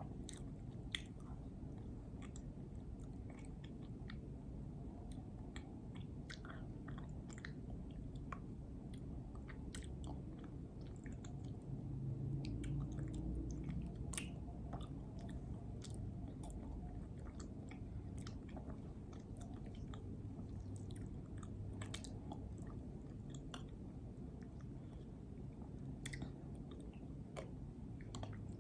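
Close-miked chewing of a peanut butter and jelly sandwich, with many small scattered mouth clicks and a single sharper click about halfway through.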